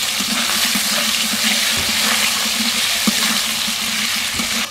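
Pointed gourd (potol) pieces sizzling loudly in hot oil in a kadai, a dense steady hiss.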